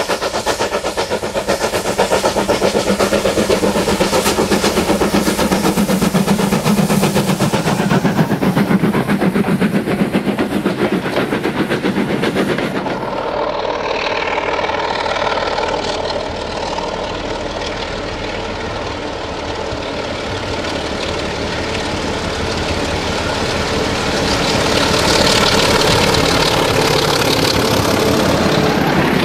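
A steam locomotive working a passenger train, its exhaust beating rapidly. After about 13 seconds the scene changes to a diesel locomotive's engine running steadily as its train approaches, growing louder near the end as the coaches pass.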